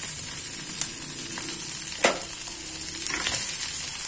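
Hot oil sizzling steadily in a wok as yellow noodles are tipped in onto frying mustard greens, with a few sharp clicks and knocks against the wok, the loudest about two seconds in.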